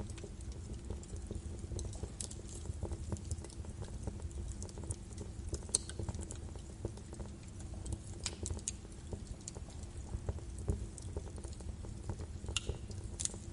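Birch wood fire crackling in a fireplace: irregular sharp snaps and pops over a low steady rumble of the flames, with a few louder cracks around the middle and near the end.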